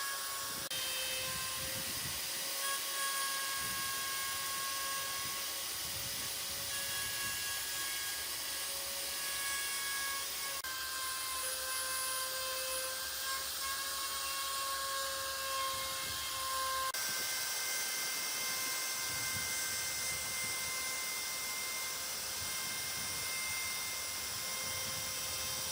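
Electric power tool running with a steady whine over a hiss, its pitch and tone changing abruptly twice.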